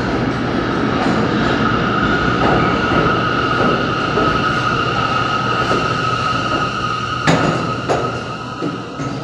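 R179 subway train coming into the station and slowing, its wheel rumble under a steady high-pitched whine. Two sharp clunks come about seven and eight seconds in, and then the noise dies away as the train comes to a stop.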